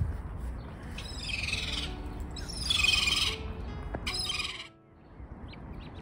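High-pitched bird calls in three bursts of rapid chirping, each under a second long, over a low rumble; the sound drops away abruptly near the end.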